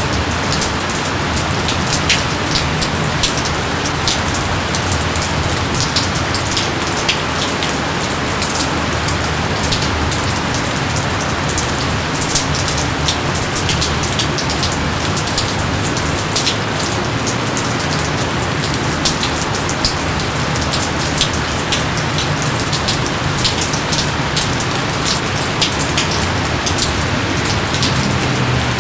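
Steady heavy rain falling, an even hiss with many sharp individual drop ticks scattered throughout.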